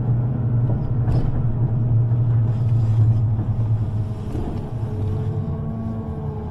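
Underground train running: a steady low hum and rumble that eases slightly after about four seconds.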